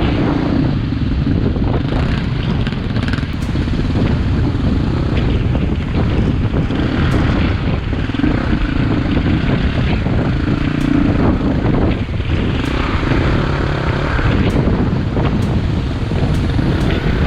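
KTM EXC-F 250 dirt bike's four-stroke single engine running while riding, its note rising and falling with the throttle, with wind rushing over the helmet-camera microphone.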